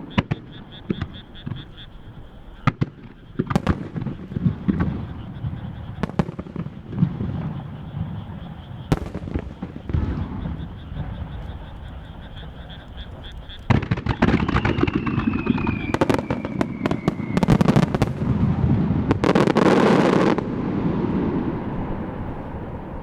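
Japanese starmine fireworks display: aerial shells bursting in scattered sharp bangs, then a dense rapid barrage about 14 seconds in that lasts roughly six seconds, with a falling whistle through it, before the booms fade into a rolling echo.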